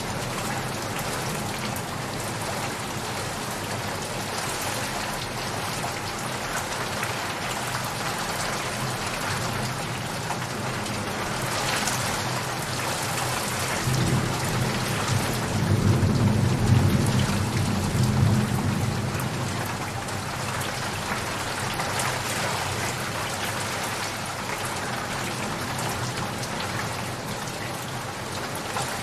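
Steady heavy rain, with a low rumble of thunder swelling about halfway through and fading away a few seconds later.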